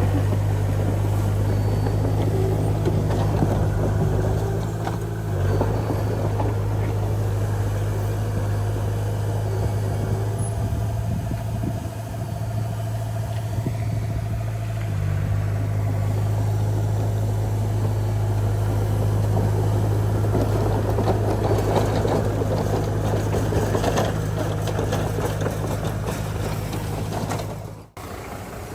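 Diesel engine of heavy earthmoving machinery running steadily under load, its pitch shifting slightly a couple of times, with a sudden break near the end.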